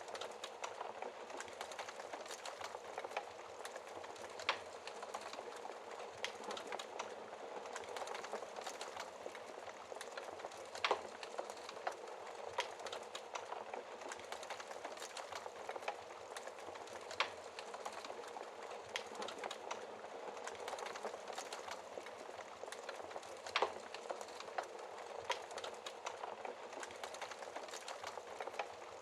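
Wood fire burning in a fireplace, a dense steady crackle of small snaps with a few louder pops now and then.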